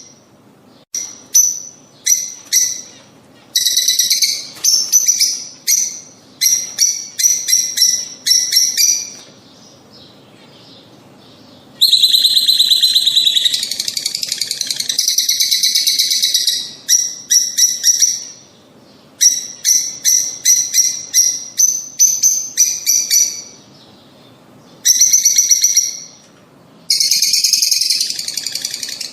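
Lovebirds calling: runs of short, sharp, high-pitched chirps broken by several long stretches of dense, shrill chatter, with a couple of brief pauses.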